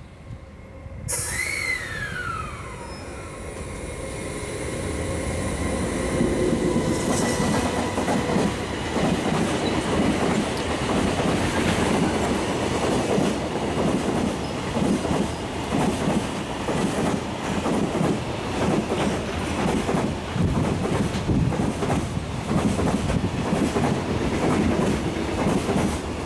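E721-series electric train pulling away: about a second in its motors start with a whine that falls in pitch, then its wheels clatter over the rail joints in a quickening rhythm, getting louder as it gathers speed.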